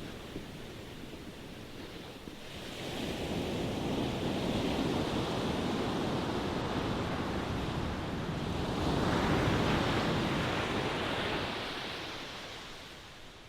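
Ocean waves breaking and washing up the shore. The surf swells a couple of seconds in, surges again around nine to ten seconds, then drains away and fades near the end.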